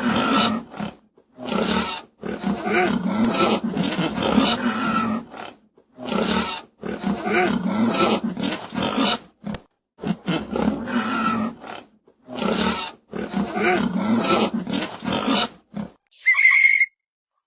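A large animal's low-pitched calls, cut into a string of edited clips one to three seconds long with short silent gaps between them. Near the end a different, high whistling sound starts.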